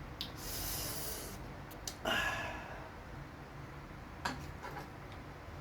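Close-up eating sounds: an airy breath through the nose, a louder mouth noise about two seconds in, and a few small clicks.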